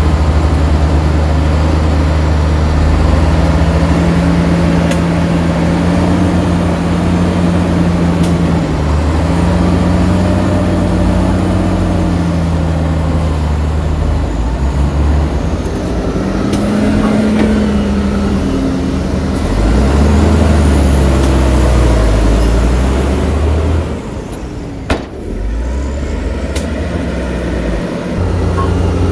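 Heavy diesel engine of earth-moving machinery working under load, its pitch rising and falling as it revs up and eases off. Near the end the engine drops back to a lower level, with a single sharp click.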